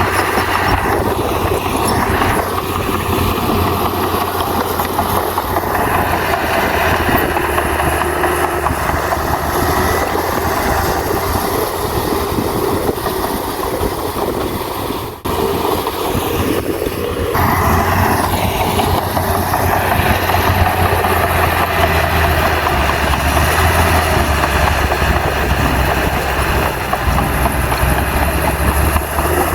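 Komatsu bulldozer's heavy diesel engine running steadily under working load, growing louder and fuller about seventeen seconds in.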